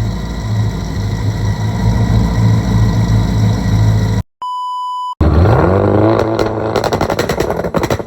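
Twin-turbo V8 of a modified 2021 Chevrolet Corvette Stingray idling with a lumpy, uneven beat, then, after a sharp electronic beep about halfway through, revved up in one rising sweep and held at high revs with a fast stutter before dropping back near the end.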